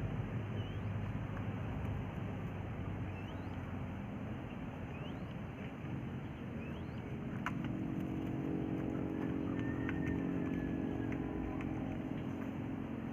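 Faint short rising peeps from quail chicks, one every second or two, over steady background noise; about halfway in a low motor hum comes in and holds steady.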